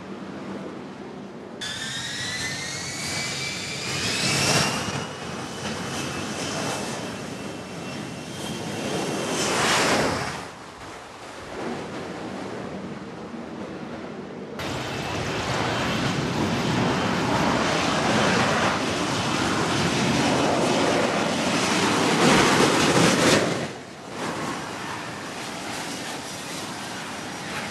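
F-35B jet engine noise in edited segments. First a turbine whine rises in pitch and levels off, swelling louder twice. Then, after a sudden cut, a loud steady jet roar runs for about nine seconds and stops abruptly.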